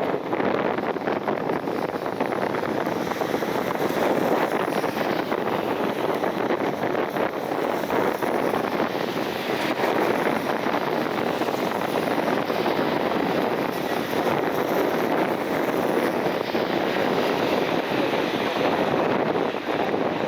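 Strong gusty wind rushing and buffeting on the microphone, a steady, dense roar without any clear engine tone.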